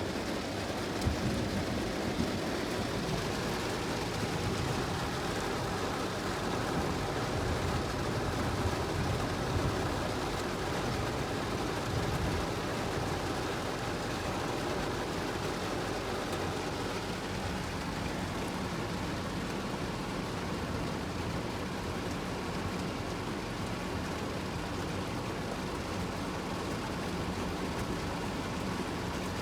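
Steady noise of a vehicle driving through heavy rain: rain and tyre spray on the road blended with a low engine and road rumble.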